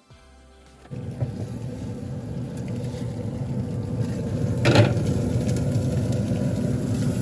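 A steady low rumbling noise begins about a second in and holds, with one short sharp noise near the middle.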